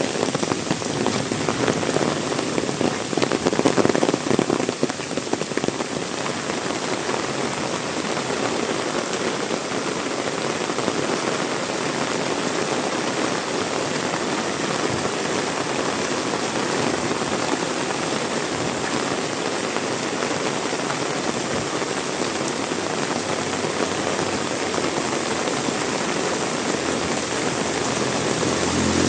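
Heavy rain pouring down, a dense, even hiss of rain hitting surfaces. It is louder and more uneven for the first few seconds, then steady.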